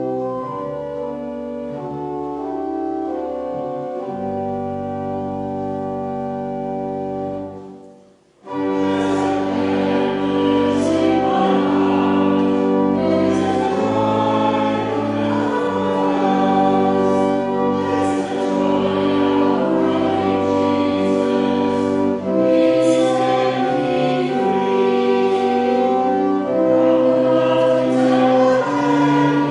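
A church organ plays the hymn's introduction. It breaks off about eight seconds in, then the congregation sings the hymn together with the organ.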